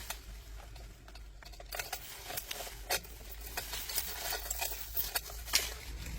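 Irregular light clicks and taps, a dozen or so spread over several seconds, like small hard objects being handled, over a faint steady low hum.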